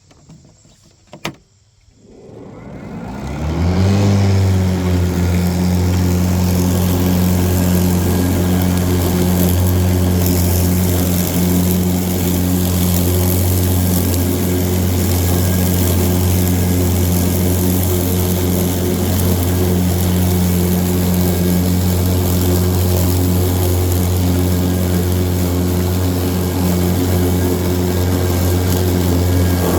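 A Ryobi battery-electric riding mower starting up: a click, then its cutting deck spins up over about two seconds into a steady, even-pitched hum that holds constant.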